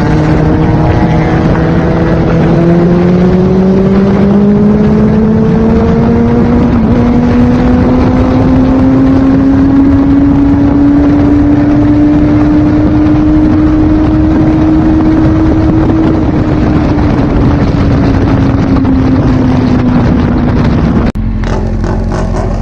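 Kawasaki Z800's inline-four engine pulling steadily up through the revs for about fifteen seconds, then easing off, with heavy wind rush on the microphone. Near the end the sound changes abruptly and gets quieter.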